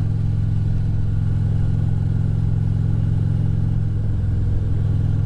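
Motorcycle engine running at a steady cruising speed, heard from on the bike, with an even low drone and no change in pitch.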